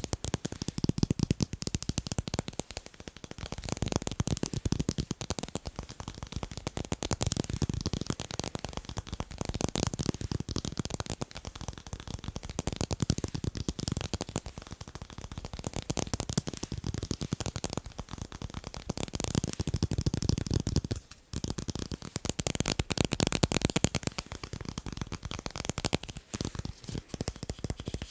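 Fast, dense tapping on tape, a rapid stream of small clicks that stops briefly about three-quarters of the way through.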